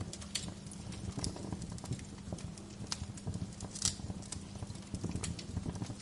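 Wood fire crackling in a fireplace: irregular sharp pops and snaps over a low steady rumble, with one louder pop about four seconds in.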